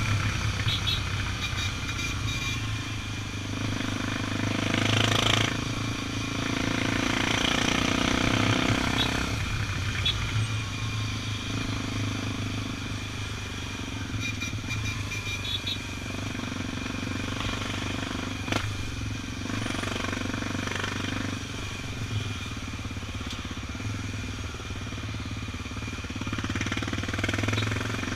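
Honda XR 250 Tornado's single-cylinder four-stroke engine running under way, its level swelling and easing with the throttle. One sharp click comes about two-thirds of the way through.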